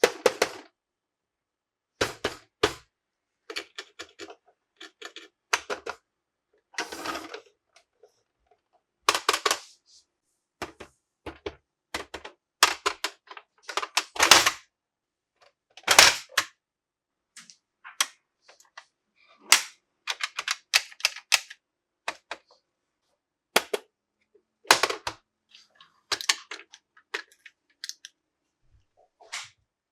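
Plastic toy parts and packaging being handled: irregular sharp clicks and taps with short crinkly rustles, in uneven bursts separated by brief pauses.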